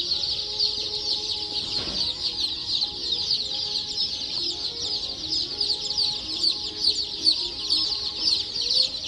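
A crowd of baby chicks peeping without pause, a dense chorus of many high, short cheeps overlapping one another.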